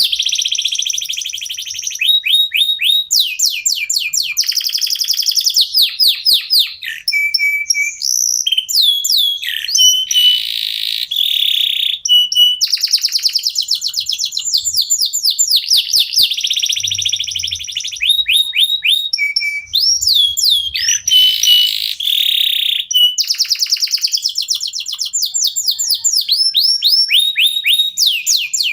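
Domestic canary (Indonesian local canary) singing without a break: fast trills of repeated sweeping notes, broken by short whistled notes and a few buzzy held rolls.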